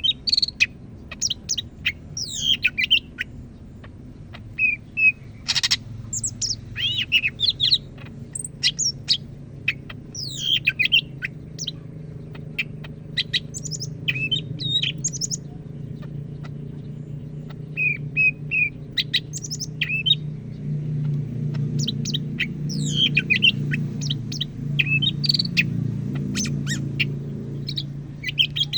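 A cucak ijo (green leafbird) singing continuously: rapid, varied phrases of sharp chirps and short whistles, one after another with brief gaps. A steady low hum lies underneath, stronger in the second half, with a single sharp click about six seconds in.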